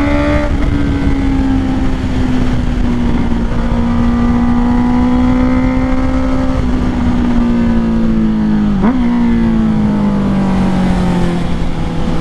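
Honda CBR650R's inline-four engine running through a Black Widow exhaust with its dB killer removed, held at a low, fairly steady engine speed that slowly eases off. About nine seconds in, the pitch dips briefly and picks back up.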